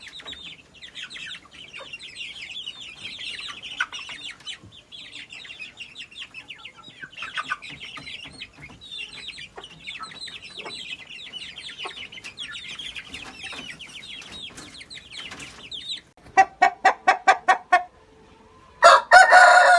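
Parrot Beak Aseel chickens calling: a busy stretch of high, chattering calls, then near the end a run of about eight loud clucks, a short pause and one more loud call.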